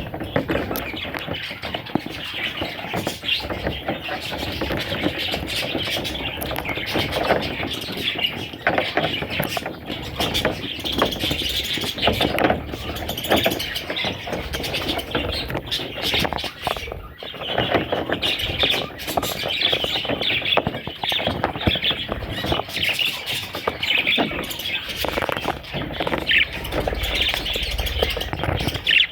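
Budgerigars chirping and chattering continuously, many short sharp calls overlapping.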